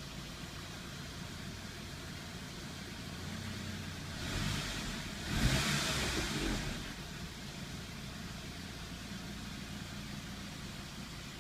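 Saab 9-5 2.3 L turbocharged four-cylinder (B235E) engine idling steadily just after a cold start, with no lifter ticking, on fresh full-synthetic oil after an engine flush. Halfway through there is a brief, louder surge lasting a couple of seconds before the idle settles again.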